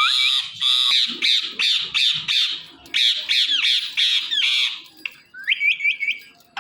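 Indian ringneck parakeet screeching: a run of harsh squawks, about two a second, then a few short, softer chirps near the end.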